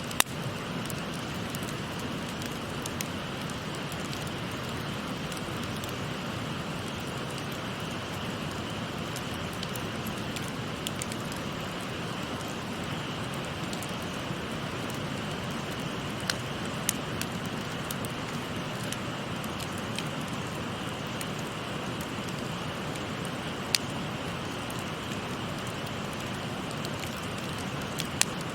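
A steady rush of a shallow stream, with a wood fire crackling over it and a few sharp pops from the burning wood, at the start, around a third of the way in, twice in the middle, and near the end.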